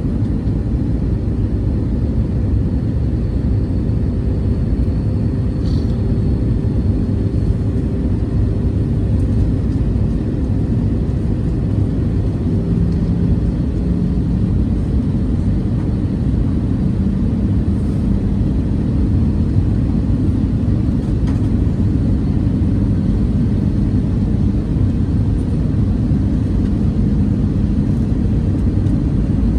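Steady cabin noise inside an Airbus A320-214 airliner in flight: a low, even rumble of engines and airflow. A faint steady hum within it shifts lower a little before halfway.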